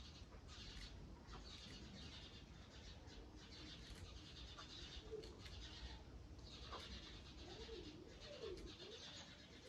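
Faint, low bird call that rises and falls several times, near the end, over a soft background hiss.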